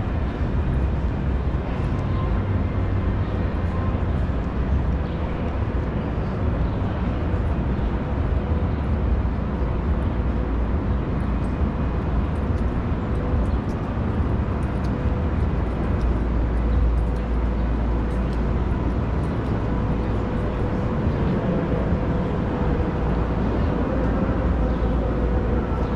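City street ambience with a steady low rumble of traffic and faint scattered noises.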